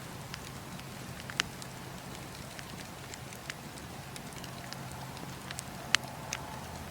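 Campfire crackling: a steady hiss with scattered sharp pops, the loudest a little after a second in and again near the end.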